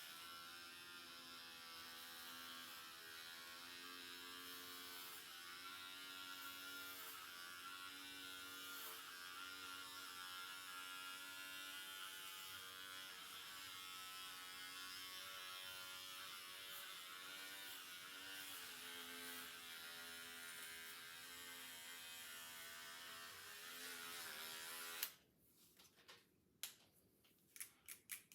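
Electric hair clippers buzzing steadily as they cut hair, their pitch wavering slightly, then switched off suddenly about three seconds before the end, followed by a few sharp clicks.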